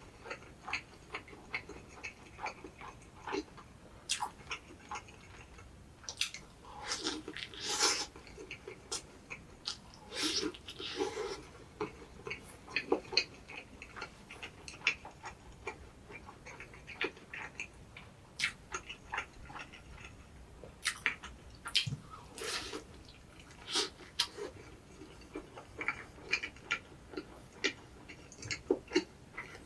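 Close-miked chewing and mouth sounds of someone eating an egg drop toast sandwich: irregular wet clicks and smacks, with a few longer bursts of chewing noise.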